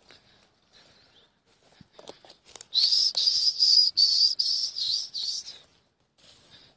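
A small bird singing: a quick run of high, warbling chirps lasting about three seconds, starting a little under three seconds in.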